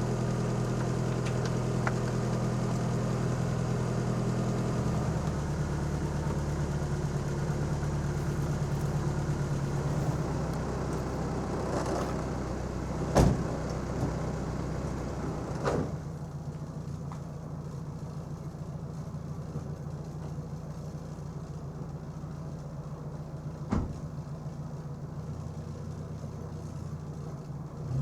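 Nissan K11 March's four-cylinder petrol engine idling steadily after a year and four months unused; its note shifts about five seconds in. A few sharp knocks cut in, and after the second the sound turns duller.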